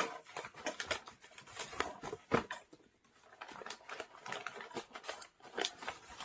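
Irregular rustling, crinkling and small clicks of parcel packaging being handled and unwrapped by hand, with one sharper knock about two and a half seconds in.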